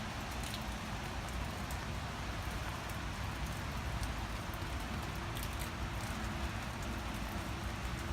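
Steady rain falling: an even hiss with scattered small drop ticks and a low rumble underneath.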